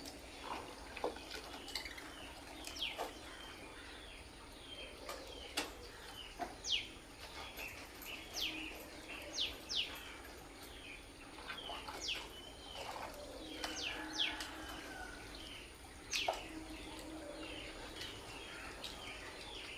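Lovebirds chirping: many short, shrill calls, each sweeping quickly down in pitch, coming in irregular runs, with a few sharp clicks among them.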